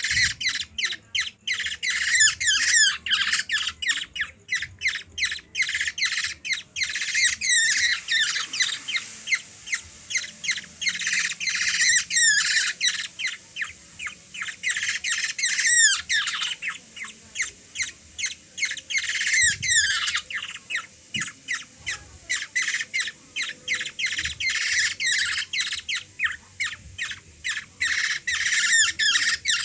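Baby black-naped oriole giving harsh, squawking begging calls for food, repeated a few times a second without a break.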